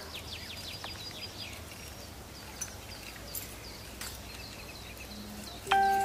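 Small birds chirping: a run of quick, falling high notes over steady outdoor background noise. Near the end a sudden short, steady beep-like tone with a click at its start, the loudest sound.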